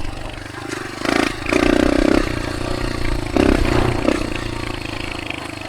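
Dirt bike engine running while riding, with several surges of throttle.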